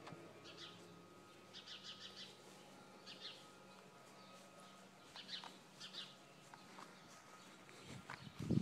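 Small birds chirping faintly: short high chirps and a quick cluster of chirps, a few times, over a low steady background hum. Just before the end a louder low rumbling noise starts.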